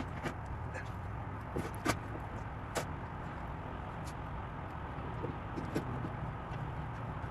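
Steady low background rumble with a few scattered light clicks and knocks.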